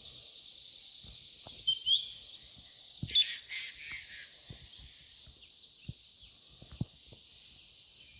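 Wild birds chirping over a steady high hiss: a short call about two seconds in, and a louder cluster of calls around three to four seconds. A few faint knocks are scattered through it.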